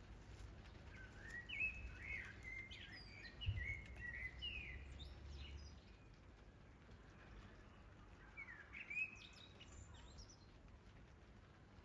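A songbird singing two bursts of quick, gliding chirps, the first about a second in and the second near the end, over a faint steady background hiss. A low rumble with a single thump comes in the middle of the first burst.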